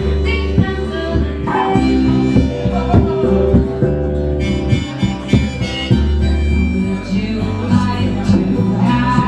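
Band playing a song: guitar over a steady bass line, with a harmonica carrying the lead.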